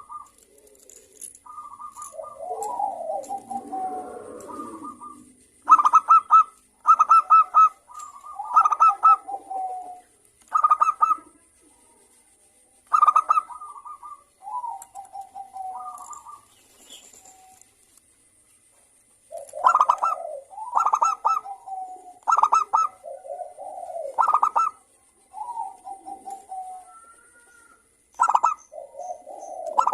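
Zebra doves (perkutut) cooing in repeated bouts of short, clipped, rolling notes, with more than one bird calling back and forth.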